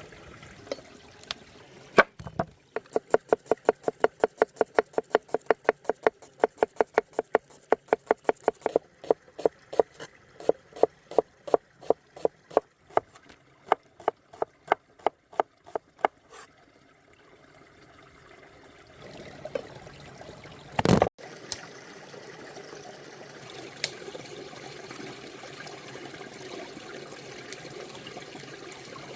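Rapid, even knife chops on a cutting board, about three a second, for some fourteen seconds. Then a stream runs steadily, with one loud knock about twenty-one seconds in.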